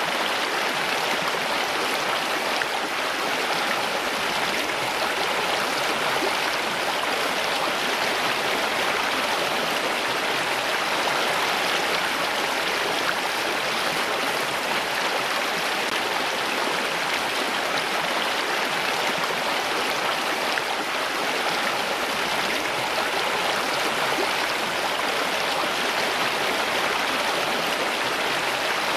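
Running water: a steady, even rush of a stream or small cascade.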